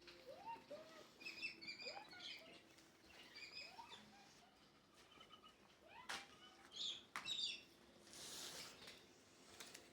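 Faint chirps and short calls of small birds, many quick notes sliding up and down in pitch. There are a couple of sharp clicks a little past the middle and a brief hiss near the end.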